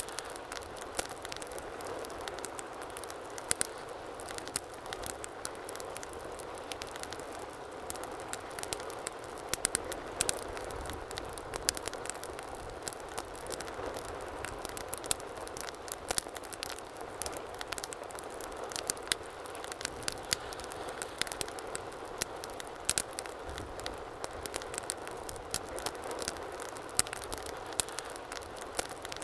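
Fireplace fire crackling, with many irregular sharp pops and snaps over a steady rushing hiss of the flames.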